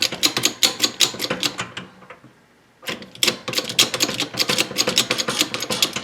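Ratchet wrench clicking rapidly as it turns a threaded bushing press, drawing new bushings into a VW front beam. The clicking pauses for about a second near the middle, then starts again.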